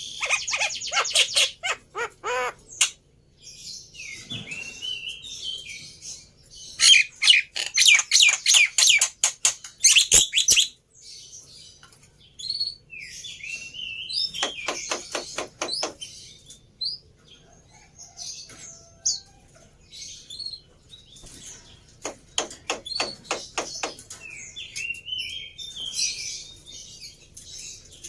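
Black-winged myna (jalak putih) calling: about four bursts of fast, harsh rattling notes, with chattering whistled notes in between.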